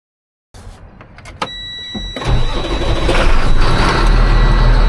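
Septic pump truck's engine being started: a few clicks, then it catches about two seconds in and settles into a loud, steady run. A steady high tone sounds alongside from about a second and a half in.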